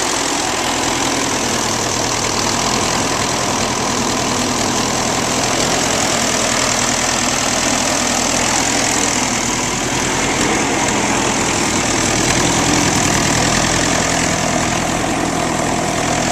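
1953 Ferguson FF30's 30-horsepower diesel engine idling steadily, just after a cold start following three months of standing.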